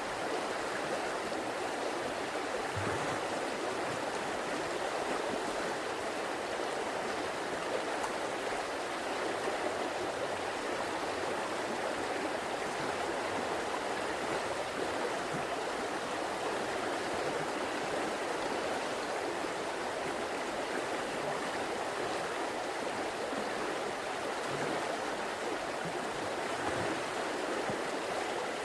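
A river flowing over rocks, a steady, even rush of water.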